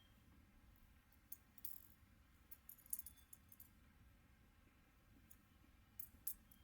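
Faint, scattered light metallic clinks and rattles of small camping gear being handled, in a few short clusters.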